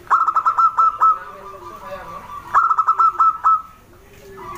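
Zebra dove (perkutut) singing: two phrases of quick staccato cooing notes, each about a second long, the second starting about two and a half seconds after the first.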